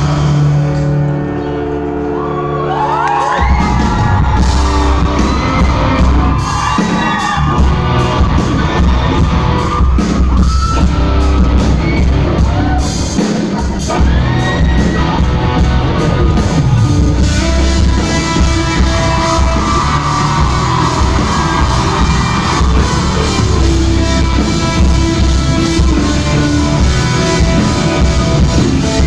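Live band playing loud in a large hall: held chords for about the first three seconds, then drums and the full band come in. Voices shout, whoop and sing in sliding runs over the music.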